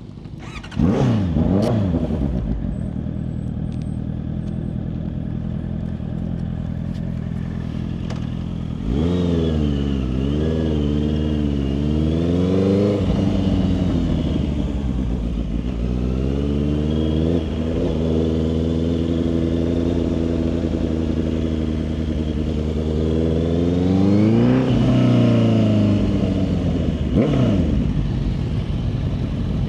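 Motorcycle engine revving briefly, running steadily, then pulling away and accelerating, its pitch climbing and dropping back at each gear change.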